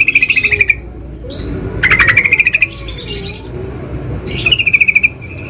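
Yellow-vented bulbul (trucukan) calling: three short bursts of fast chattering notes, a second or two apart.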